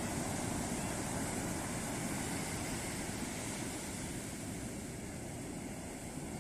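Ocean surf breaking on a beach: a steady rushing wash of waves that eases off slightly toward the end.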